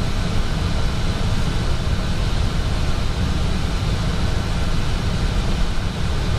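Steady flight-deck noise of an Airbus A320 on approach: a constant airflow rumble with a hiss over it.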